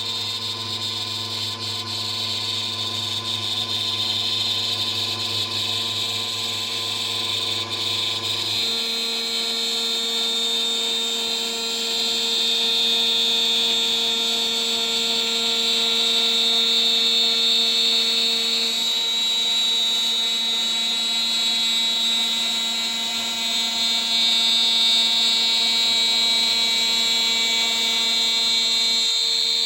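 CNC spindle running at about 14000 RPM while a 3 mm three-flute end mill mills a part, a steady high whine over a steady lower tone. A low hum underneath stops about nine seconds in.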